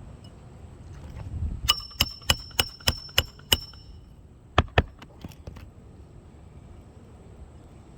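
Hammer driving roofing nails into a shingle: a run of seven quick strikes at about three a second with a metallic ring, then two more strikes about a second later.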